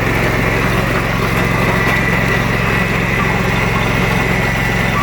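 Small engine of a key-start riding lawnmower running steadily at an even speed, with a faint steady whine above it.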